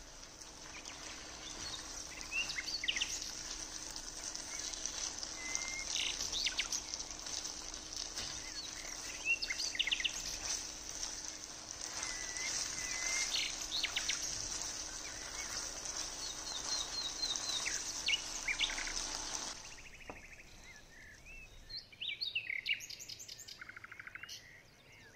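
Birds chirping, with short whistled notes and rapid trills, over a steady high hiss that drops away about three quarters of the way in while the birdsong goes on.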